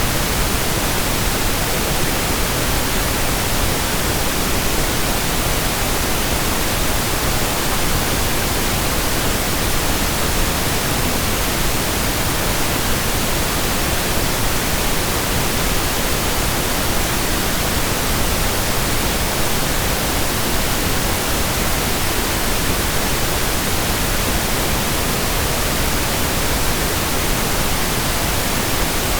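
Steady synthetic pink noise: an even, unbroken hiss with no change in level.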